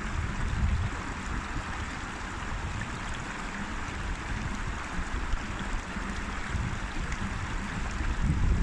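River water rushing and splashing steadily. A low rumble of wind on the microphone comes and goes, strongest at the start and near the end.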